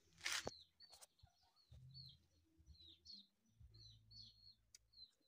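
Faint small-bird chirps, short calls each dropping in pitch, repeated about twice a second, with one brief rustling noise just after the start.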